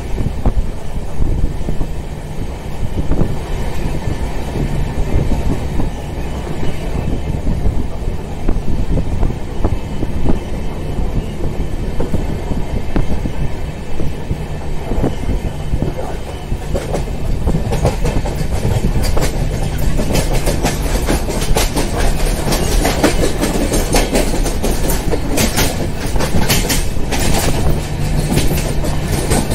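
Passenger express train running at speed, heard from aboard: a steady rumble of wheels on the rails with rapid clicks. It grows hissier and more clattery over the second half.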